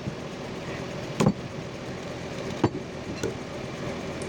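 Old 4x4 army truck's engine running at a steady speed, with three sharp knocks over it about a second, two and a half seconds and three seconds in.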